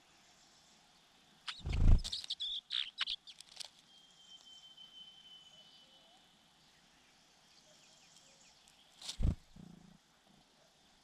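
Two loud thumps, the first about a second and a half in and followed by a quick run of sharp clicks and rustles, the second near the end. In the middle a faint, thin, steady high whistle is held for a couple of seconds.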